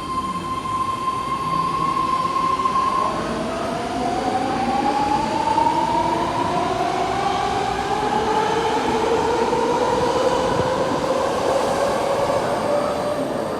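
BART train's electric traction motors whining. A steady tone holds for about three seconds, then several tones rise slowly in pitch as a train accelerates.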